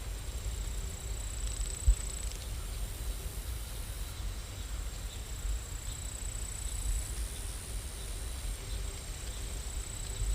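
Steady rain ambience, a continuous hiss over a low rumble, with a single soft thump about two seconds in.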